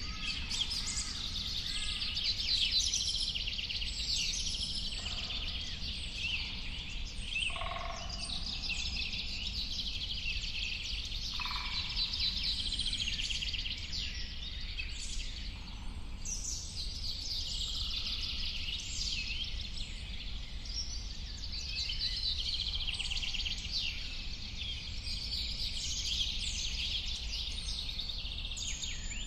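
Many birds chirping and singing at once, a dense chorus of overlapping short calls and trills, over a steady low rumble.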